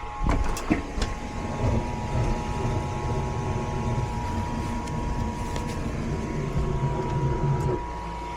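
Gas furnace burners lighting with a few clicks and burning with a steady low rumble, then cutting out near the end as the flame goes out, over the steady hum of the running unit. The tech takes the flame dropping out for a flame sensor issue.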